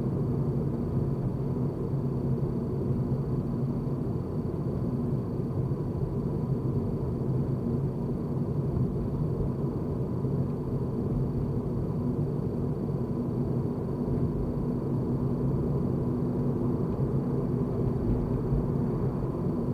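A car driving at a steady speed: a constant low road and engine rumble, with a faint steady high-pitched tone over it.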